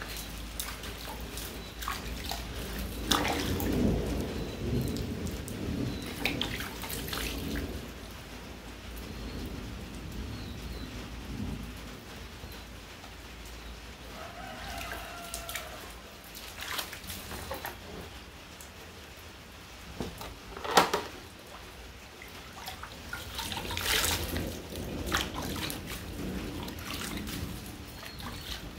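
Rain falling steadily over a low rumble, with scattered splashes and knocks as water is fetched by hand and one sharp, louder knock about two-thirds of the way through.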